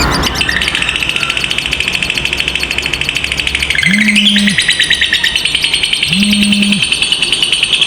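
Lovebird giving a long 'ngekek' trill, the prized long chatter of a fighter lovebird: a very rapid, unbroken high chatter that dips and climbs in pitch about halfway through. A short low hum sounds twice in the background, about two seconds apart.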